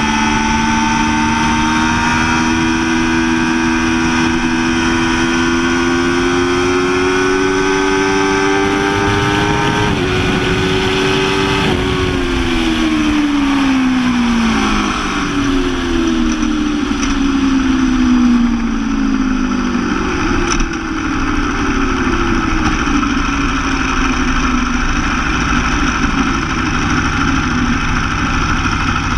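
Motorcycle engine under way, its pitch climbing slowly for about ten seconds, then, after a shift, the revs falling away over several seconds as it slows, leaving a steady rush of road and wind noise.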